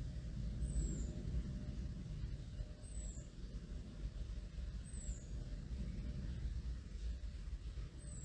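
Low, steady rumble of a distant aircraft overhead. Over it, a bird gives a thin, very high, down-slurred call that repeats every two seconds or so.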